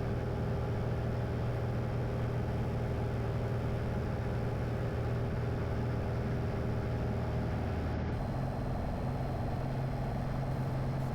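Single-engine Piper Arrow's piston engine and propeller droning steadily in cruise. About eight seconds in, the pitch of the drone shifts slightly, as with a power or RPM change.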